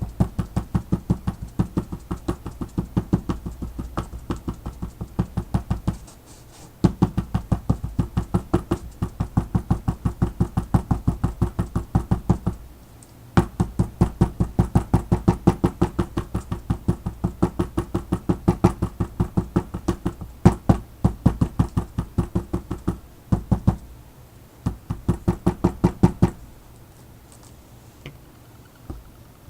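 Paint being dabbed onto the page with a brush or sponge, each dab knocking on the work table: rapid, even taps about five a second, in long runs broken by short pauses, stopping a few seconds before the end.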